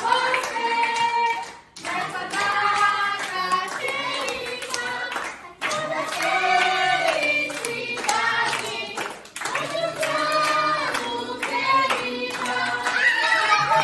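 Voices singing a song in phrases, with short breaks between the lines, and some hand clapping.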